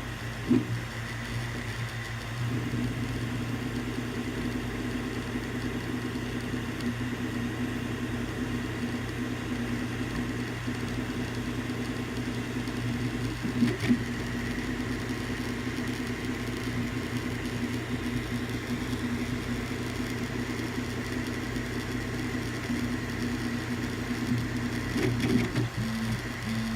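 Creality CR-10S 3D printer running a print: a steady fan hum under the stepper motors' changing whir as the print head moves back and forth, with a few short sharp knocks.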